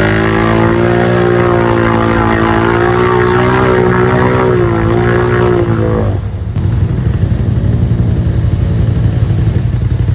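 Off-road vehicle engine held at high revs with a slightly wavering pitch. About six seconds in it drops off throttle to a lower, rough rumble.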